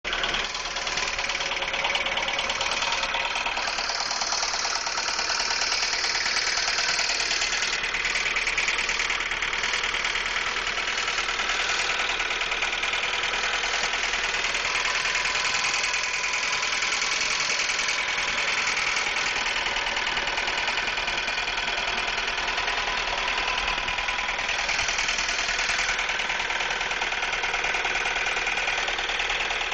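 Ford Focus petrol engine idling with a loud, steady rattling clatter from the engine, a clanging the owner says sounds like a diesel. A mechanic who heard it suspected a thrown connecting rod.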